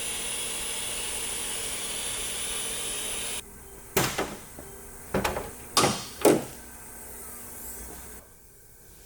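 Steady hiss with a faint high whine for the first few seconds, then five sharp metallic knocks and clanks between about four and six and a half seconds in, like tools being picked up and set down during an oil change.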